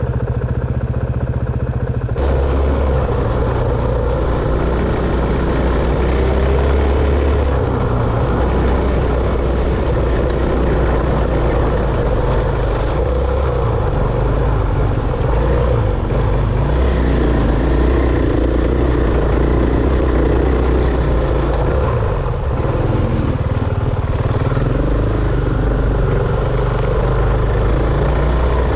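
Dirt bike engine running continuously during a ride, with a heavy low rumble throughout.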